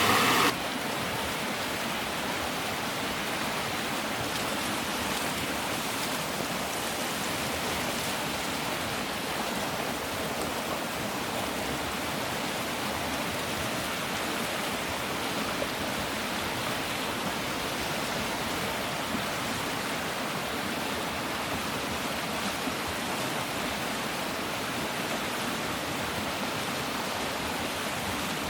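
Water rushing steadily, an even hiss that keeps up without pauses or changes.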